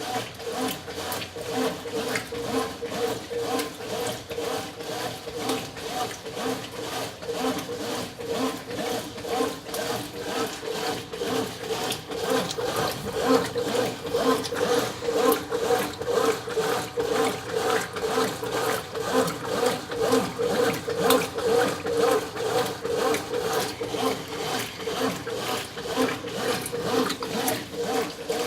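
Brastemp 9 kg top-loading washing machine agitating a load, the agitator swishing back and forth in an even rhythm of about two strokes a second over a steady motor hum.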